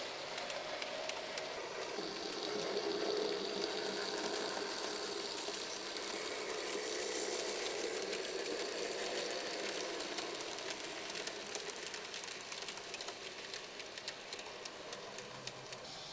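Märklin Z-scale (mini-club) model trains running on the layout: a steady hum from the tiny motors and wheels, with a rapid patter of fine clicks. It grows somewhat fainter over the last few seconds.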